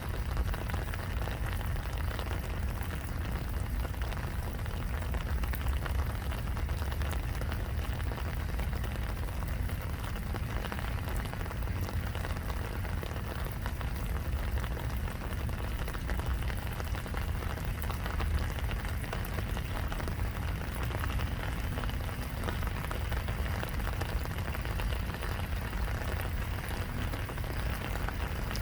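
Steady rain falling, an even patter with a low rumble underneath.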